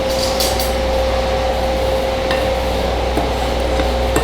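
A spoon stirring dry seasoned flour in a bowl, soft scraping with a few light ticks, over a steady electrical hum.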